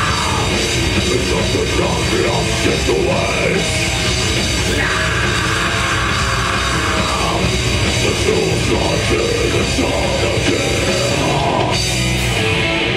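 Death metal band playing live at full volume, a drum kit driving a dense, heavy wall of sound; the song stops right at the end.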